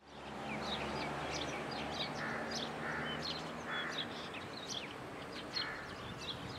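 Birds chirping, many short quick calls overlapping, with a few harsher, rougher calls among them over a faint steady hum.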